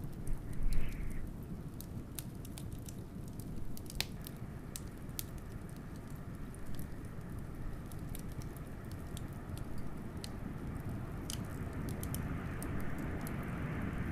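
Fire crackling with scattered sharp pops over a steady low rumble of blizzard wind, which swells and rises near the end. A louder low thump comes about a second in.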